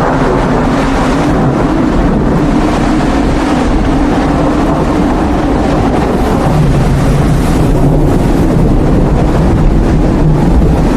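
Steady vehicle running noise: a loud, even rumble with a low hum, as from an RV driving.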